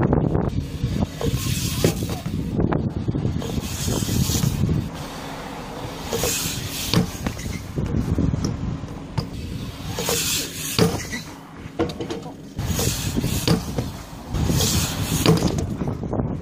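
BMX bike riding on skatepark concrete: tyres rolling with a steady rumble, bursts of scraping hiss and occasional sharp knocks.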